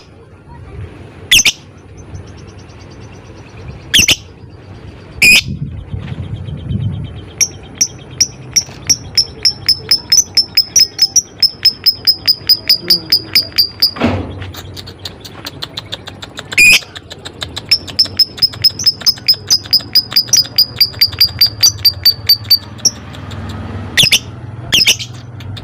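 Lovebird calling: a few sharp single shrieks, then two long runs of rapid, evenly spaced high chirps at about six a second. This is the long ngekek trill that lovebird keepers prize.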